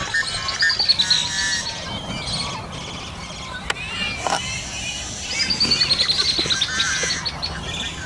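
Birds chirping: a fast run of high notes falling in pitch about half a second in and again about five seconds in, with scattered shorter calls between.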